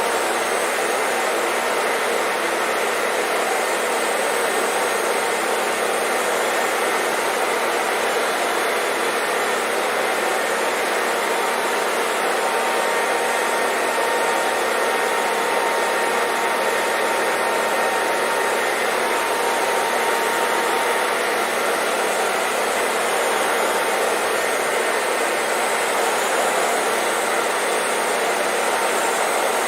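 Hair dryer running steadily, a constant whooshing hiss of air with a faint high motor whine, unchanging throughout.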